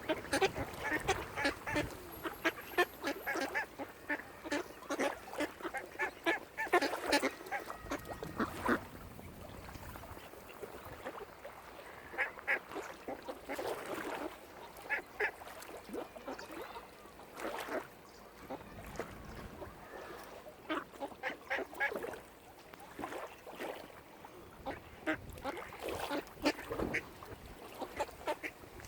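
Waterfowl calling: many short, pitched calls in quick clusters, one over another, with brief lulls between.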